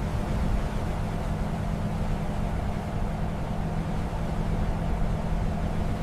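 Steady low machinery rumble with a constant low hum and a hiss of noise over it, unchanging throughout.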